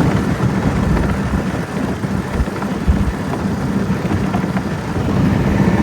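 Old Yamaha outboard motor running steadily, pushing a small boat under way, with wind rumbling on the microphone and water rushing past.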